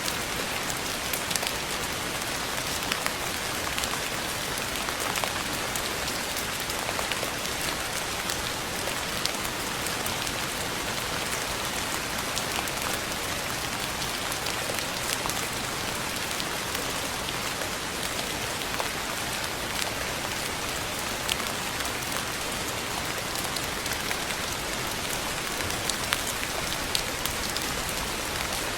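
Steady rain falling: a dense, even hiss with many individual drops ticking sharply throughout.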